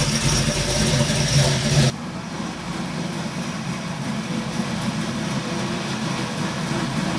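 A vehicle engine idling close by with a steady low hum, which stops abruptly about two seconds in. A quieter steady background of engine idle and outdoor noise follows.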